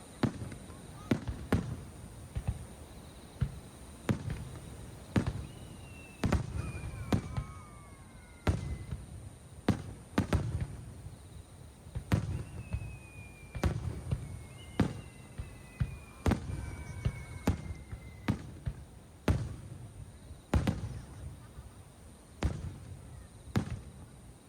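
Aerial fireworks shells bursting in a rapid series of booms and bangs, one every second or so. In the middle come several long whistles, each falling in pitch.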